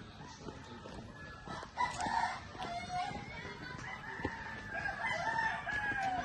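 Rooster crowing repeatedly, the last crow long and falling slightly in pitch near the end.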